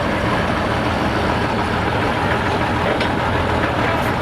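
Super stock pulling tractor's turbocharged diesel engine running loud and steady.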